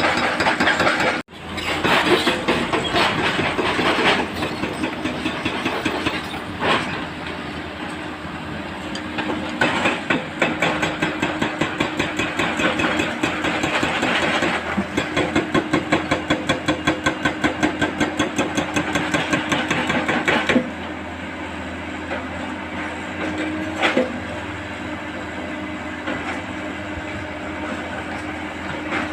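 Heavy diesel earthmoving machinery (excavators and a dump truck) running under load, with a steady engine drone. In the middle there are several seconds of fast rhythmic clatter, about three beats a second, which stop abruptly. The sound cuts out briefly about a second in.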